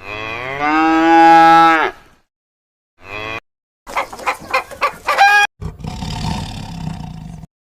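A string of separate animal calls cut back to back: a long call lasting about two seconds, a short call, a quick run of pulsed calls that rises in pitch at the end, then a rougher, noisier call.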